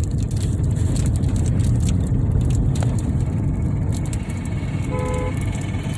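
Steady low rumble with light crackles and clicks from a plastic candy wrapper being pulled and twisted open. A short tone with several pitches sounds briefly near the end.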